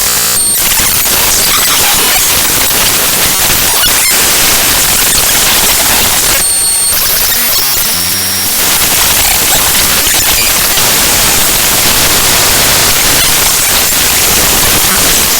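Raw bytes of the ffmpeg.exe program file played back as audio by Binary Waterfall: loud, harsh static-like noise. About six to eight seconds in, the texture changes briefly, with a few short steady tones and a faint buzzing pattern.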